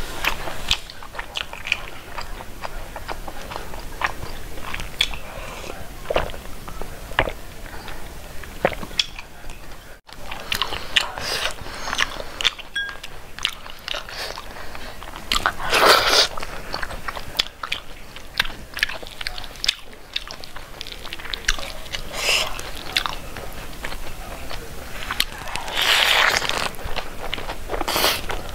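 Close-up mukbang eating sounds: chewing with many wet mouth clicks and smacks, and a few louder squelching, rustling bursts as a hand mixes and gathers rice and eronba on a banana leaf.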